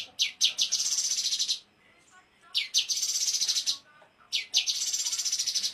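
A small songbird singing: three phrases, each a few sharp high notes that run into a fast, high trill lasting about a second.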